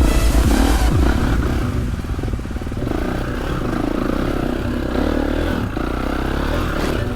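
Kawasaki KX450 dirt bike's single-cylinder four-stroke engine running on the trail, revving up and down, with a brief easing off about two seconds in.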